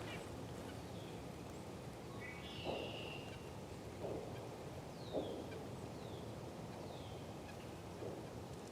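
Wild birds calling outdoors. A brief rapid run of high notes comes about two and a half seconds in, then several short falling high whistles. A few low, harsh calls are spaced about a second apart.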